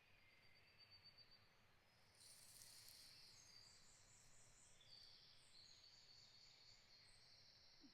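Faint forest ambience of high-pitched trills, several overlapping at different pitches and shifting in steps. They grow a little louder about two seconds in.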